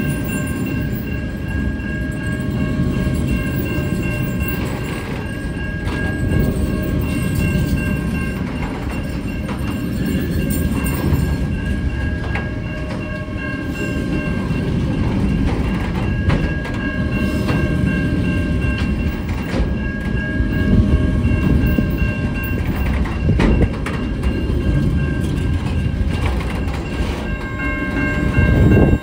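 Freight train's loaded container wagons rolling past with a steady low rumble and irregular clacks of wheels over the rails, with a steady high whine over the rumble.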